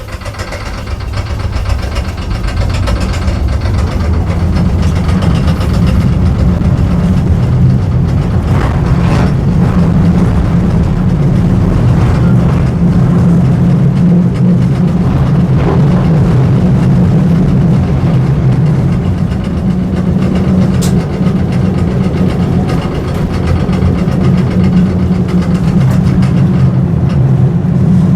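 Vintage electric tram running, heard from on board: a loud, steady low rumble from the wheels and motors that builds over the first few seconds and then holds steady.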